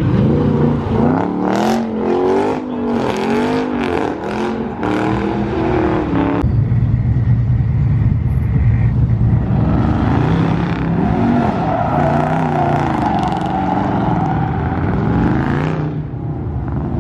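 Car engine revving hard, its pitch climbing and dropping again and again, with sharp crackling bursts over the first six seconds. After an abrupt change a little past six seconds, a deep engine runs on with slower rises and falls in revs.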